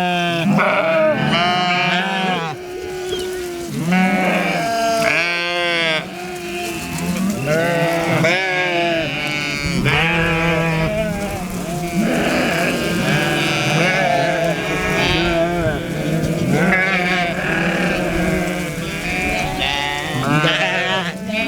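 A flock of sheep bleating, many calls overlapping without a break.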